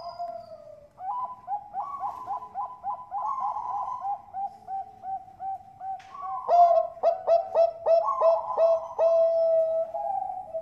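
Bangkok perkutut (zebra dove) cooing. A rapid run of rolling coo notes slows to a steady beat. About two-thirds of the way through come louder, sharper notes at about four a second, ending in a long held coo.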